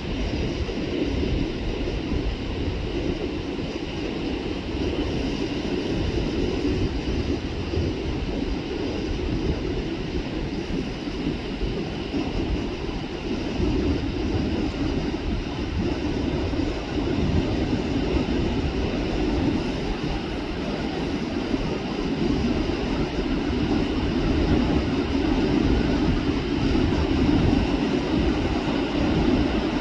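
Wind buffeting the microphone over the continuous rush of Pacific Ocean surf, with no breaks.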